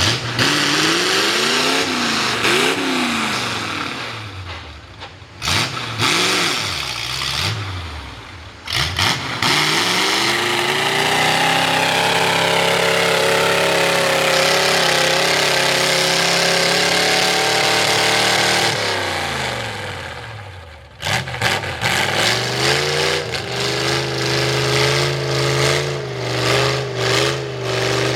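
Ford V8 mud truck with open upright headers revving hard. Its pitch swings up and down with quick throttle blips, then holds at high revs for about eight seconds around the middle. It then drops away and goes back to choppy throttle blips near the end.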